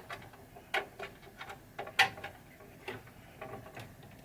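Irregular sharp clicks and taps of a bit screwdriver and a Phillips screw being fitted and turned into the head assembly, with one louder click about two seconds in.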